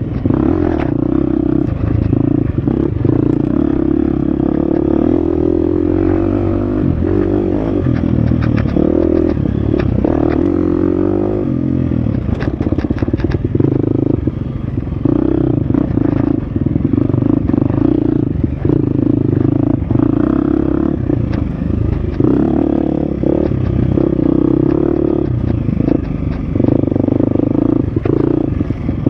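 Husqvarna FX 350 four-stroke single-cylinder dirt bike engine running hard on a trail, its revs rising and falling with the throttle and gear changes, with scattered rattles and knocks from riding over rough ground.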